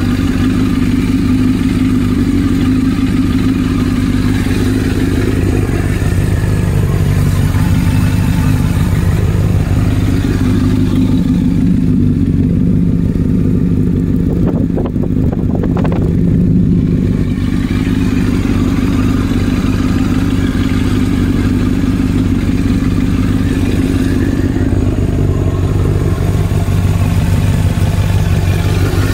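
Honda CBR1000RR's inline-four engine idling steadily through a red aftermarket end can.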